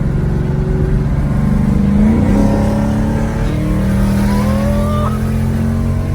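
A 2015 Mustang GT's 5.0 V8 running through catless longtube headers, an H-pipe and Roush axle-back mufflers, with a rise in pitch about two seconds in as it picks up revs.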